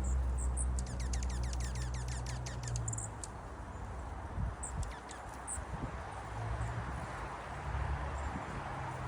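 Small songbirds calling at a feeding spot: from about a second in, a rapid two-second trill of quick falling notes, about eight a second, with short high chips scattered around it. A low rumble runs underneath for the first three seconds and again near the end.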